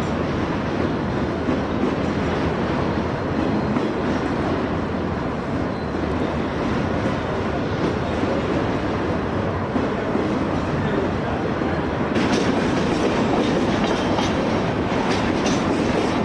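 Train running on the rails with a steady rumble; from about twelve seconds in, wheel clicks over rail joints become sharper.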